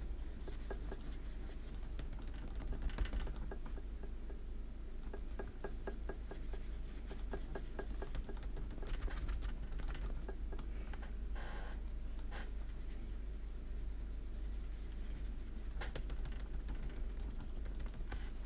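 Watercolour brush working quickly on paper: faint quick taps and scratches, in clusters, over a steady low hum.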